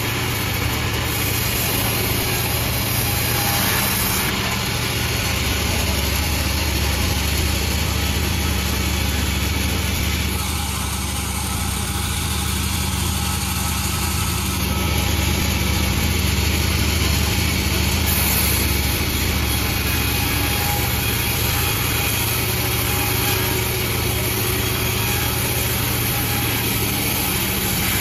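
Panda36 sawmill machine running steadily with a low engine hum, its higher noise easing briefly in the middle before picking up again.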